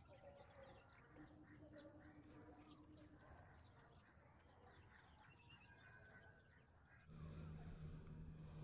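Near silence with faint bird chirps; about seven seconds in, a low steady hum comes in.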